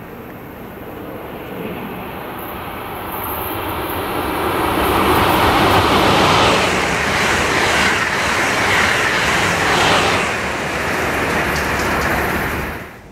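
Amtrak Acela Express high-speed electric trainset passing at speed: a rush of wheels and air that builds as it approaches, is loudest for several seconds as the cars go by, then cuts off suddenly near the end.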